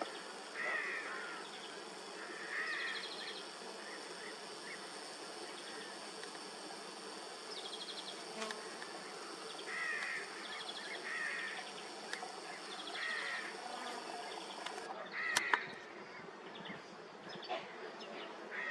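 Outdoor insects chirping and buzzing, with short chirps recurring every second or two.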